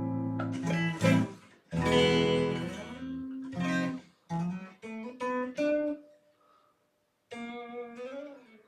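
1997 Squier Jagmaster electric guitar played: two strummed chords, then single picked notes stepping up in pitch, and after a short pause a held note with a bend near the end.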